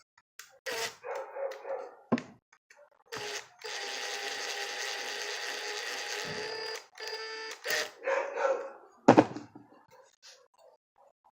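A dog barking and yelping in short calls, with a long steady pitched sound of about three seconds in the middle and a sharp knock about nine seconds in.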